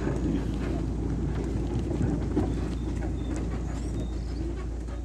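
Car engine running at low speed with a steady low rumble as the car rolls over a rough dirt track, with a couple of faint knocks about two seconds in.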